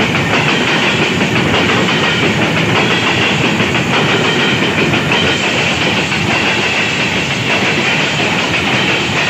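Empty steel hopper wagons of a goods train rolling past at close range at about 55 km/h: a steady loud rumble of wheels on rails with clatter over the joints. A faint high wheel squeal comes and goes.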